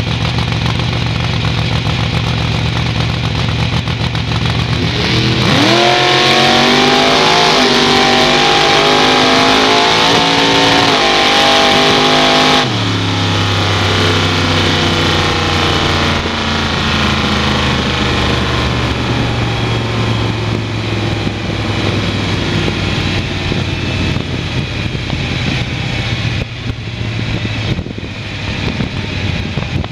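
Chrysler 440 big-block V8 in a drag-racing Valiant Charger idling at the start line, then launching about five seconds in and running at full throttle down the strip, its pitch climbing. About thirteen seconds in the throttle is cut suddenly and the engine falls to a lower drone, sinking slowly as the car coasts.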